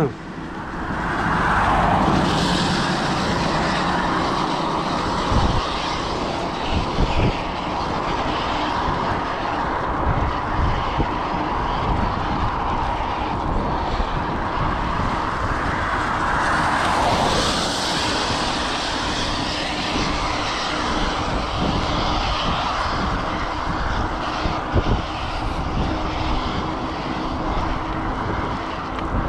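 Steady engine-like drone mixed with rushing wind noise, swelling up near the start and again about two-thirds of the way through.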